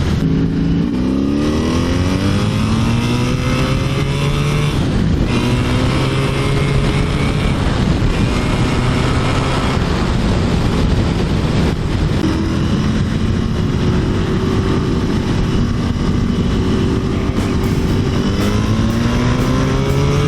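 Honda V65 Magna's V4 engine through an aftermarket Mac exhaust, under way and accelerating. The pitch climbs, drops back at each upshift, and climbs again several times.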